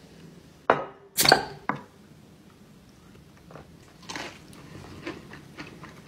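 Loud crunching bites into a crispy breaded fried chicken wing, three sharp crunches within the first two seconds, followed by quieter crunching as it is chewed.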